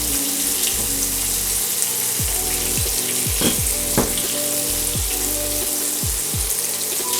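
Flour-coated chicken strips deep-frying in hot oil, a steady sizzle, with a couple of short clicks around the middle.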